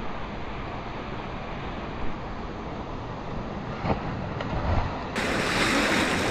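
Water of a mountain valley stream rushing and splashing, a steady noise with a couple of faint knocks. About five seconds in it turns brighter and a little louder.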